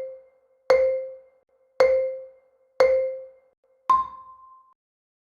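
Marimba-like mallet notes struck about once a second, three at one pitch and then a final note about an octave higher, each ringing out and fading: a countdown sound cue.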